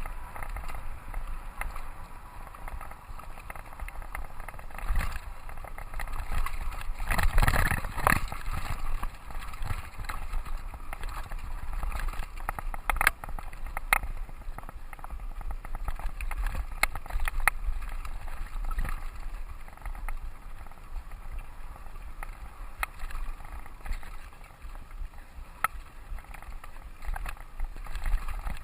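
Mountain bike riding along a dirt trail: tyre rumble, wind on the camera microphone, and scattered sharp rattles and clicks from the bike over bumps. There is a louder, rougher stretch about seven seconds in.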